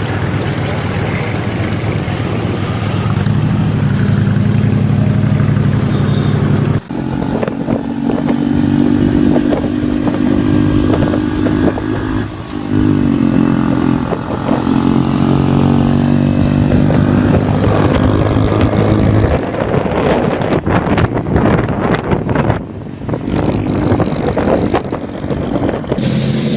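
Bagger motorcycle engines running and being revved, their pitch rising and falling, across several clips cut together with sudden changes about seven seconds in and near the end.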